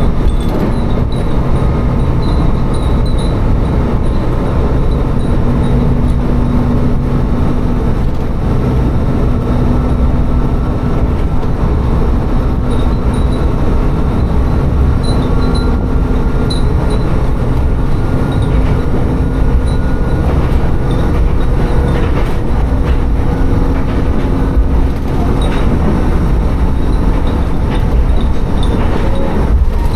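Tsugaru Railway diesel railcar running between stations: a steady engine drone with the rumble of its wheels on the rails, and faint high pings now and then.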